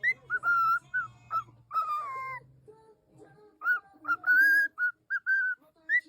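Parrot whistling a string of short notes, some bending up or down in pitch and one longer note falling, with a short pause about halfway through.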